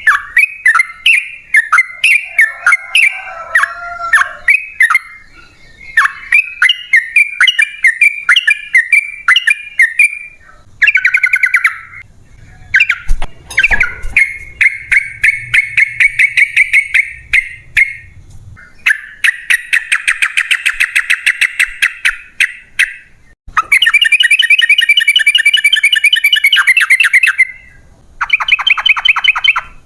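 Yellow-vented bulbul (trucukan) singing: a string of quick bubbly chirped notes, then several long, very fast rolling trills of a few seconds each, the 'ropel panjang' song.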